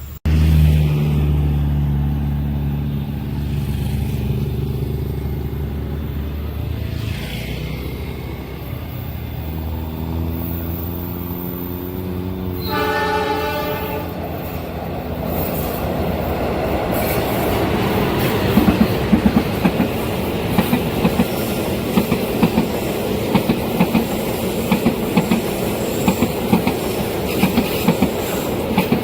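A train approaching a level crossing with a low, steady locomotive engine drone, then sounding its horn once, briefly, about halfway through. After that the cars pass with a loud rattle and a regular clickety-clack of wheels over the rail joints.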